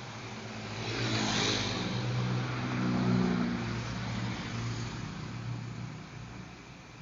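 A vehicle engine passing by: it swells quickly from about a second in, is loudest over the next couple of seconds, then fades away toward the end.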